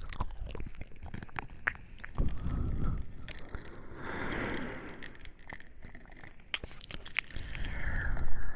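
Close-miked ASMR mouth sounds: rapid wet clicks and smacks of the lips and tongue, with two soft breathy stretches, one about four seconds in and one near the end.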